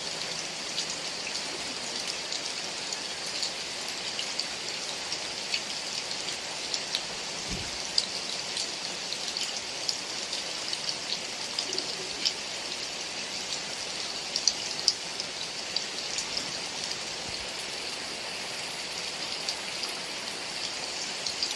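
Heavy rain falling steadily, a dense hiss with many individual drops ticking sharply on near surfaces.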